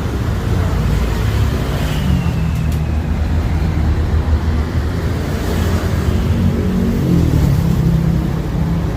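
City street traffic: motor vehicle engines running close by, with a short, falling high squeal about two seconds in.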